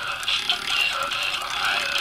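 Singing buck novelty toy playing a song through its small, tinny speaker, with the sound thin and lacking bass, and short clicks and rattles from its moving mechanism.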